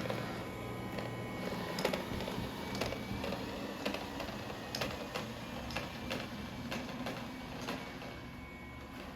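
A small machine running steadily, with a sharp click about once a second. It is likely the 3i G10+ robot vacuum running.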